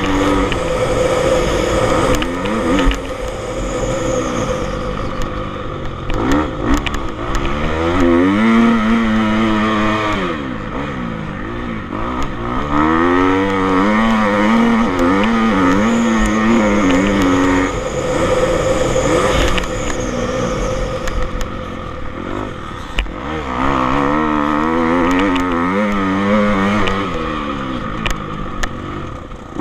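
Motocross bike engines revving up and down, the pitch climbing and dropping again and again as the throttle opens and closes.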